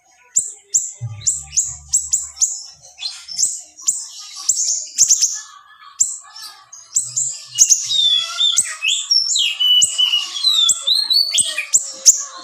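Small songbird (siri kecil) singing a fast series of sharp, high chirps, turning about six seconds in into a busier, varied song with sliding whistles.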